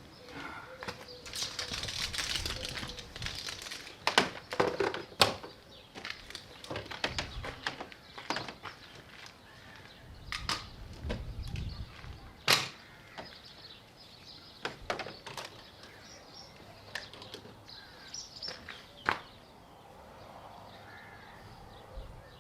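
Irregular clicks, knocks and rustling, like objects or tools being handled, with the sharpest knocks about four, five and twelve seconds in.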